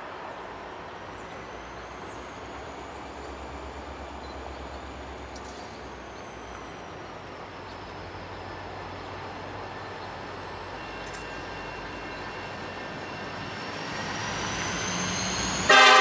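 Norfolk Southern local freight led by an EMD GP40-2 approaching from a distance: a low rumble that grows louder over the last couple of seconds. Right at the end the lead locomotive's air horn starts to sound, loud and chorded.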